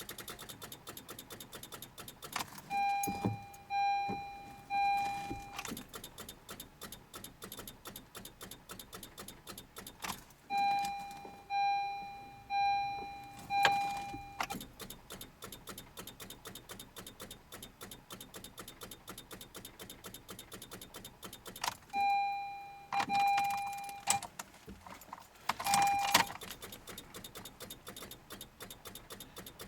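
A Honda CR-Z's dashboard warning chime beeps in short runs of two to four, about one beep a second, over a fast, steady clicking. A few knocks come in between. The car is failing to start in deep cold.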